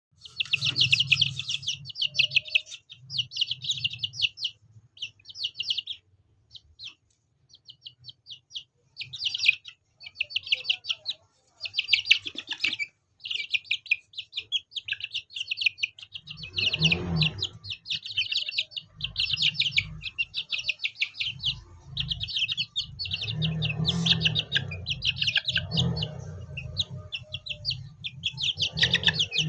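Chicks chirping in quick, high trilling bursts, one after another, over a low hum that grows louder about halfway through.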